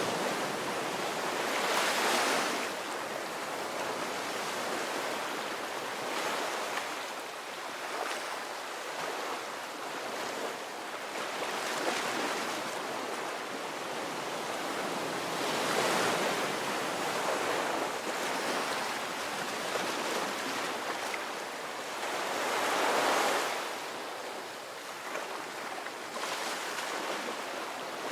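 Ocean surf on a beach: a steady wash of breaking waves that swells louder every few seconds as each breaker comes in.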